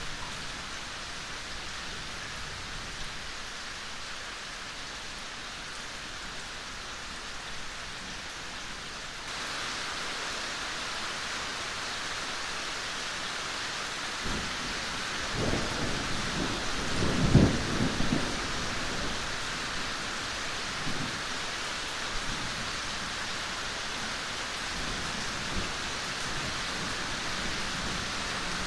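Steady rain falling, its hiss stepping up a little about nine seconds in. A low rolling rumble of thunder builds from about fourteen seconds in, loudest around seventeen seconds, then fades.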